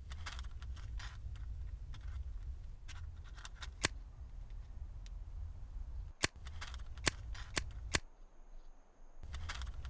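Campfire crackling: a low rumble with irregular snaps and several loud pops, the rumble dropping out about eight seconds in.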